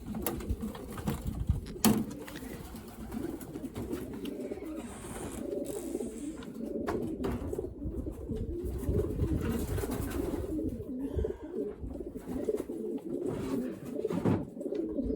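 A flock of racing pigeons cooing together, a continuous overlapping low murmur, with a few sharp knocks from handling.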